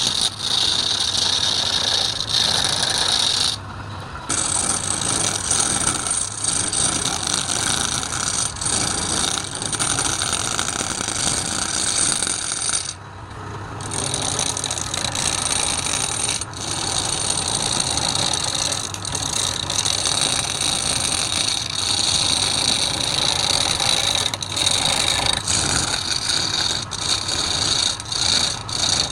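Wood lathe running with a turning tool cutting the spinning wood, a steady loud scraping hiss that drops out briefly twice, near four seconds in and again about thirteen seconds in.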